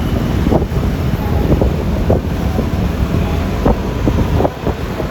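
Wind buffeting the microphone on a moving Yamaha Lexi LX 155 scooter, over the rumble of road and traffic noise, with scattered short knocks and thumps through it.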